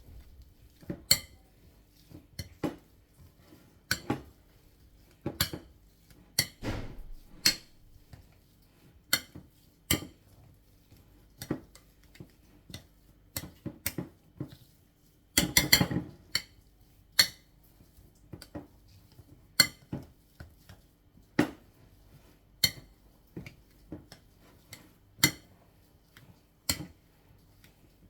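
A kitchen utensil knocking and clinking against a bowl as boiled Irish potatoes are mashed: sharp knocks about once a second, with a quick flurry of knocks about halfway through.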